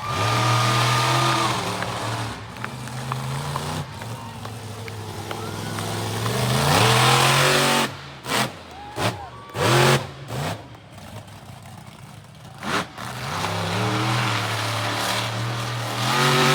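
Monster truck engine revving hard. A long rev builds about six seconds in, a run of short, sharp throttle blips follows, and the engine climbs again near the end.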